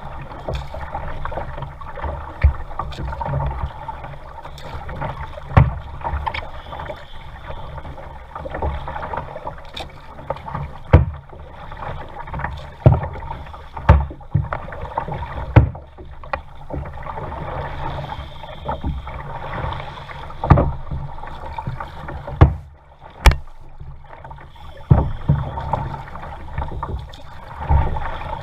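Paddling a kayak: paddle strokes splash and knock at irregular intervals every second or two, over a steady low rumble and rush of water.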